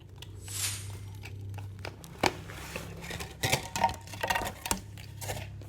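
A cut plastic water bottle crinkles and clicks as it is handled, over a steady low hum that starts at the outset.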